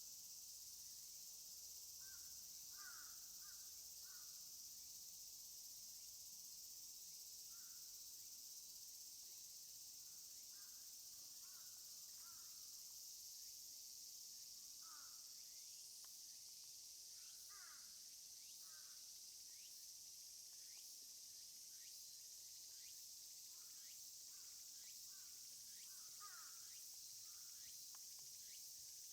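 Faint, steady, high-pitched drone of a summer insect chorus, with scattered groups of short, falling bird calls throughout.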